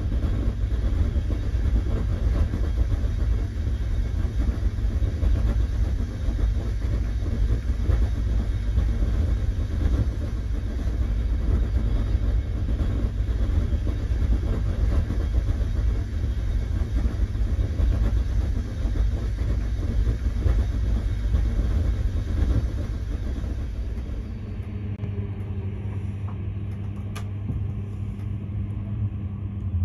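Passenger train in motion: a steady low rumble of wheels on rails, easing about 24 seconds in to a quieter, steadier hum, with a single click near the end.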